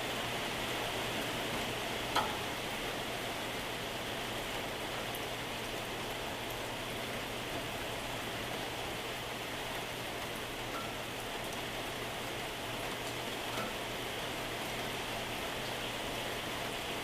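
Moderate to heavy rain falling steadily, with a single sharp tap about two seconds in and a fainter one later.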